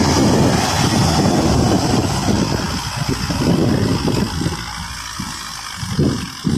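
Belarus 510 tractor's diesel engine running with a heavy-load trolley in tow, a low rumble with hissy wind or tyre noise over it. It eases off a little past the middle and picks up again near the end.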